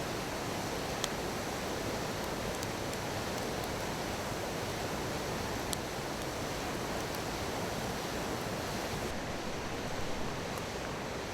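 A small stream babbling steadily, with a few sharp crackles from a wood bonfire.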